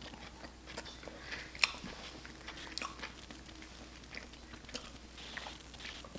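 Close-miked chewing and biting of food, with scattered small clicks and crackles and one sharp click about a second and a half in.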